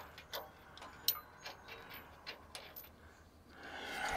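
Hand tools working out the cab hinge bolts: scattered light metallic clicks and ticks at an irregular pace, with a soft rushing noise rising near the end.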